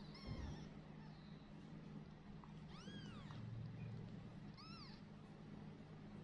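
Newborn kittens mewing faintly: a few short, high-pitched mews that rise and fall, near the start, about three seconds in, and just before five seconds, over a steady low hum.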